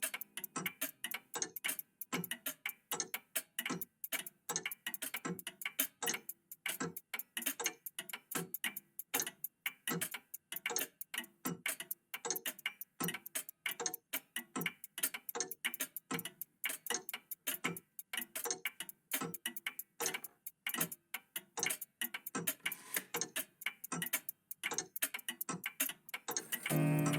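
Several old mechanical clocks, a vintage cuckoo clock among them, ticking out of step, a few sharp ticks a second. A sustained musical tone comes in at the very end.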